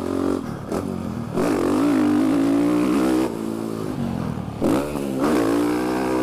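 Dirt bike engine revving and easing off between throttle openings as it is ridden around the track, heard through a microphone inside the rider's helmet. The revs climb hard about a second and a half in and again near the end.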